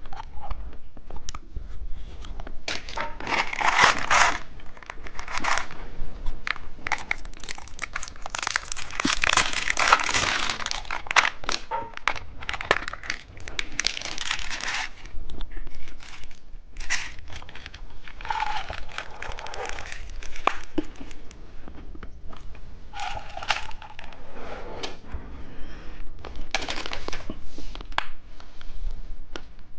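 Plastic candy wrappers crinkling and rustling in repeated bursts.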